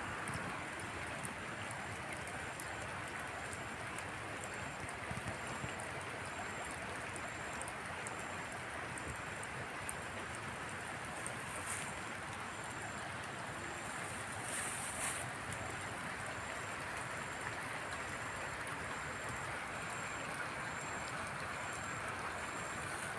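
Steady rush of water, an even noise with no pauses, with a couple of brief louder splashes or gusts partway through.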